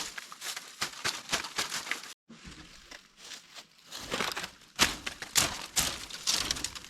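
Irregular crackling and crunching, like dry leaves and twigs being trodden or pushed through, with a brief dropout about two seconds in.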